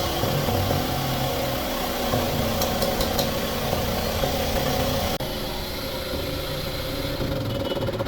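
Engine running steadily, with an abrupt change in the sound about five seconds in.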